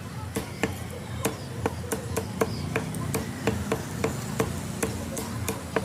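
Cleaver chopping chicken on a wooden block: a steady run of sharp chops, about three a second.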